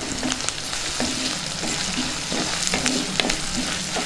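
Chopped onions and green and dried red chillies sizzling in hot oil in a clay pot, stirred with a wooden spatula that scrapes against the pot in short, uneven strokes, several a second.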